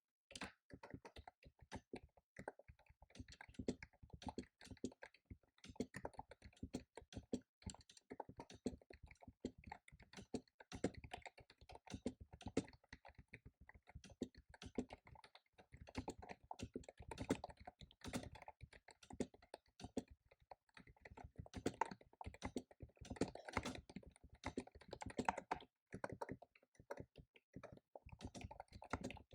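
Fast typing on a computer keyboard: a dense, irregular run of key clicks, pausing briefly about two-thirds of the way through.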